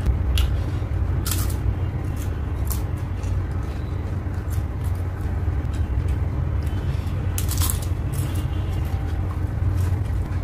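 Close-miked chewing of crisp fried papad (poppadum), with a few short sharp crunches over a steady low rumble.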